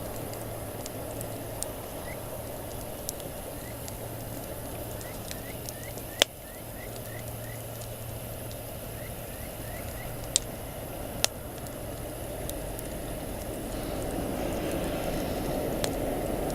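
Wood campfire burning with a steady hiss and scattered sharp pops, the loudest a little over six seconds in and two more around ten to eleven seconds in. Faint short chirps repeat in the background.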